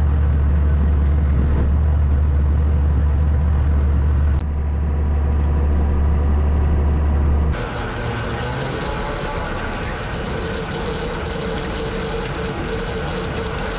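Tractor engine running steadily while pulling a bush hog rotary cutter, a deep drone. It changes abruptly about four seconds in and again about halfway through, after which it carries a steady higher-pitched whine.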